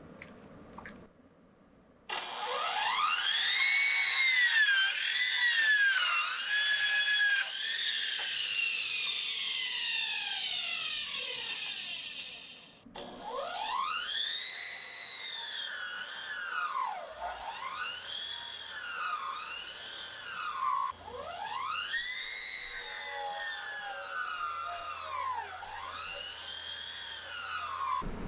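A power tool's motor whining, repeatedly spinning up in pitch, dipping as it bogs under load, and winding back down.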